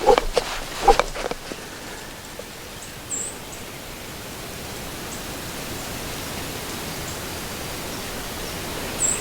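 Steady outdoor background hiss in the woods, with a few short clicks in the first second and two brief faint high chirps, about three seconds in and near the end.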